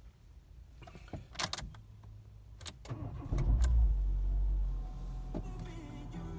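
Renault Sandero Stepway engine starting from cold: a few sharp clicks, then about three seconds in it cranks and catches with a loud surge and settles into a steady idle. The owner hears clicking at every cold start that fades after a few minutes, cause not yet diagnosed.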